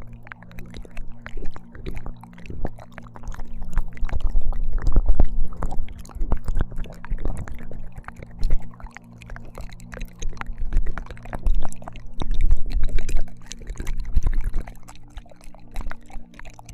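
ASMR ear licking on a binaural microphone: close, wet mouth clicks and smacks in irregular bursts that swell and fade in waves.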